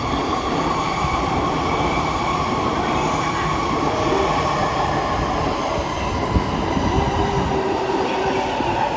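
Electric commuter train moving through a station platform: steady running rumble with a motor whine, and a few sharp wheel knocks over rail joints from about six seconds in.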